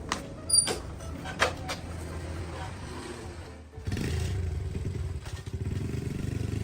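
A few sharp knocks, then about four seconds in a motorbike engine starts and runs with a steady low rumble.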